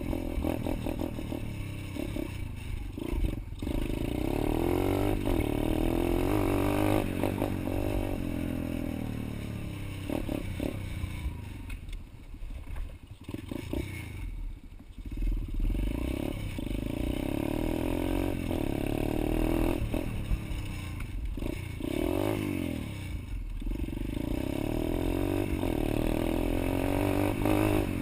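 Pit bike engine revving up and down as it is ridden, its pitch rising and falling with the throttle again and again, and dropping lower and quieter for a few seconds midway.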